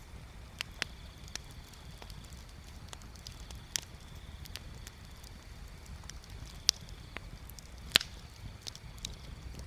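Wood bonfire crackling: irregular sharp pops and snaps over a low steady rumble, with two louder snaps in the second half.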